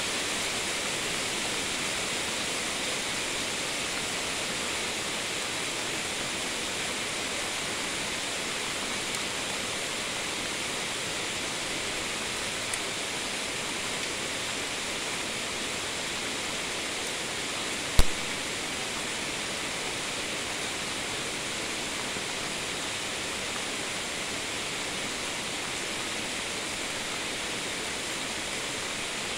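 Steady hiss of heavy rain falling during a thunderstorm, with one sharp tap about two-thirds of the way through.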